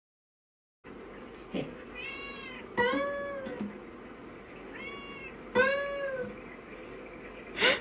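A domestic cat meowing about four times, each meow drawn out and rising then falling in pitch, over a steady background hiss.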